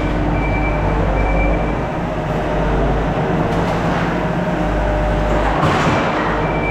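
Skid steer engine running steadily under work, with a louder rattling clatter about five and a half seconds in.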